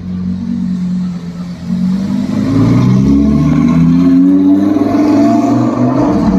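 A car engine running steadily, then revved about two seconds in, rising in pitch and getting louder and staying up.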